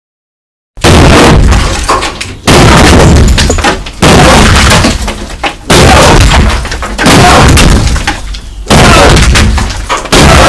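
A string of very loud, distorted crashes, about one every one and a half seconds. Each hits at full loudness and then fades, after a short stretch of dead silence at the start.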